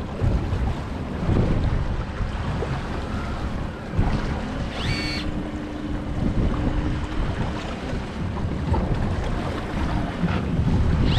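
Wind buffeting the microphone and water washing against a small fishing boat's hull at sea, with a brief high chirp about five seconds in.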